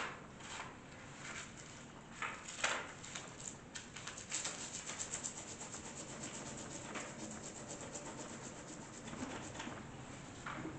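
Pencils scratching on paper as people draw: scattered strokes, then a run of quick back-and-forth shading strokes through the middle.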